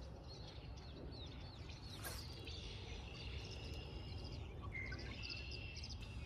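Small birds chirping and singing over a steady low background rumble, with a single sharp click about two seconds in.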